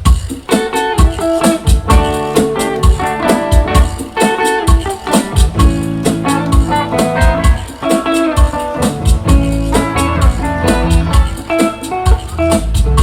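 Live band playing the instrumental intro of a song: plucked guitar notes over a steady percussion beat.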